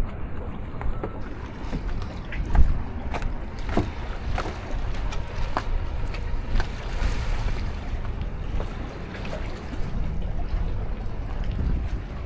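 Seaside ambience: wind buffeting the microphone over a steady wash like sea surf, with scattered faint clicks and a single louder knock a few seconds in.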